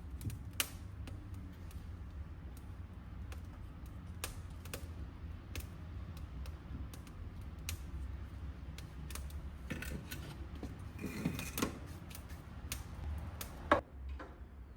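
Wood fire crackling in a fireplace: irregular sharp pops and snaps over a low steady rumble, with one louder pop near the end.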